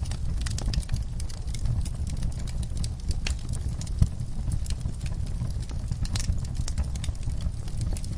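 Wood fire crackling in a fireplace, with irregular small pops and snaps and one louder pop about four seconds in, over a low steady rumble of the flames.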